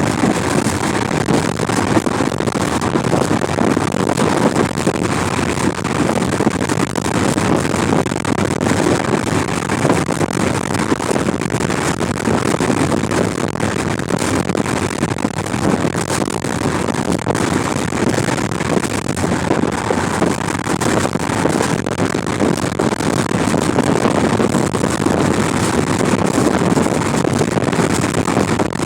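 Heavy wind noise buffeting the microphone from a car, a loud, steady rushing with no breaks.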